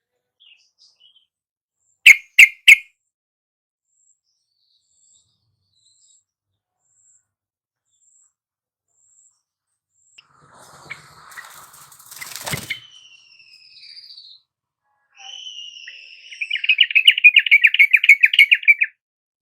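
Yellow-vented bulbul song: three loud short notes about two seconds in, then a fast, bubbling trill near the end. A sharp click and some faint noise sit in the middle.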